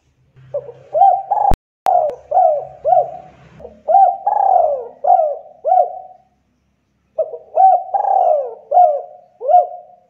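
Spotted dove (tekukur) cooing: two phrases of repeated coos, the second starting about seven seconds in. A sharp click about a second and a half in.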